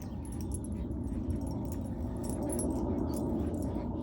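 A puppy whimpering over a steady low background noise.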